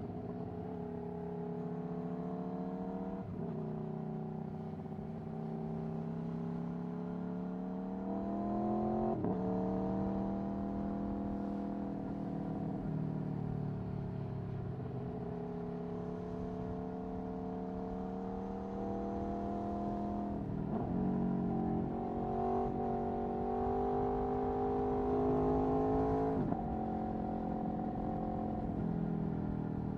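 Aprilia Tuono V4 1100's V4 engine through an Akrapovic Racing exhaust, pulling under throttle with its pitch climbing, then dropping sharply at gear changes about 3, 9, 21 and 26 seconds in, and easing off in between.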